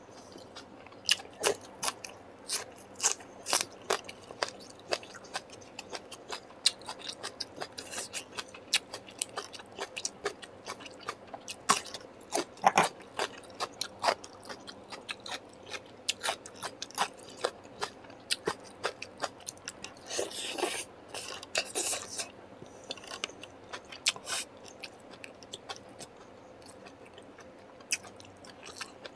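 A person chewing and biting food close to the microphone: a continual run of short, sharp mouth clicks and crunches, with a denser stretch of crunching about twenty seconds in.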